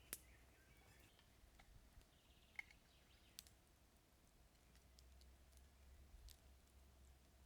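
Near silence with a few faint, sharp clicks spread through it, the first one right at the start.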